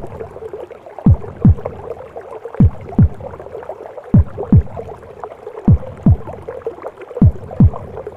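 Heartbeat as heard in the womb: a slow lub-dub double thump about every second and a half, five beats in all. Under it runs a continuous whooshing, gurgling womb noise.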